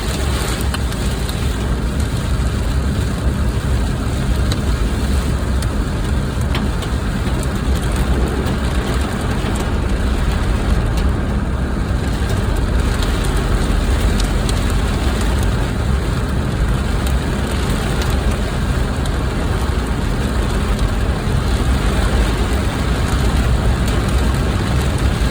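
Car driving through heavy rain: a steady low road and engine rumble under the hiss of rain on the vehicle, with scattered light ticks.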